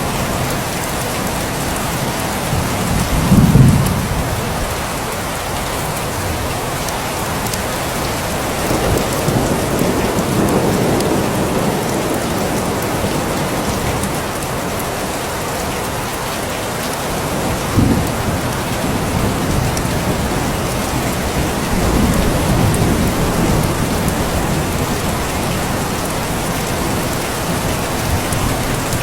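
Steady heavy rain hissing, with low thunder rumbles rolling in several times: the loudest clap comes about three and a half seconds in, a sharper one a little past halfway, and softer rolls in between.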